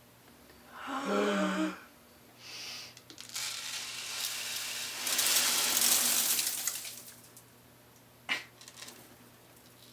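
Dry rice poured from a bucket: a steady hissing rush of grains for about four seconds, heaviest in the middle, ending with a single sharp knock.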